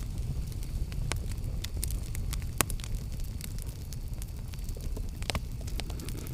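Campfire burning: a steady low rumble with irregular sharp crackles and pops, the loudest pop about two and a half seconds in.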